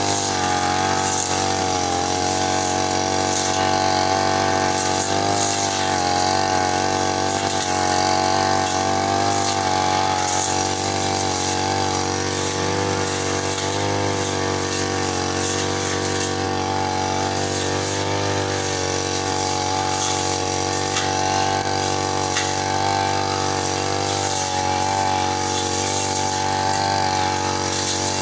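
Petrol brush cutter engine running steadily, its pitch wavering slightly up and down.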